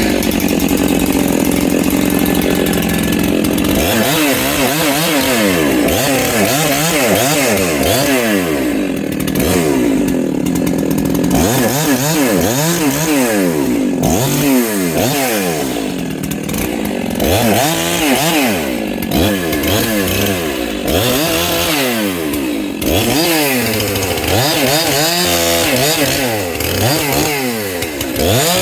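Large two-stroke chainsaw of the 70–80cc class cutting firewood. It holds steady at high revs for a few seconds at a time, and in between its engine speed rises and falls quickly, over and over.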